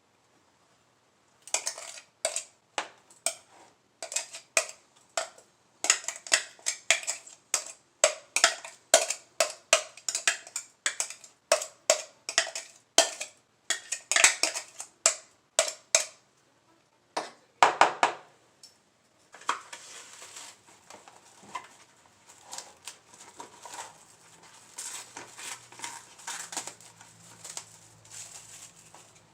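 Kitchen utensils knocking against kitchenware in quick, sharp strokes, two or three a second, for about fifteen seconds. A louder clatter follows, then a softer stretch of scraping and stirring.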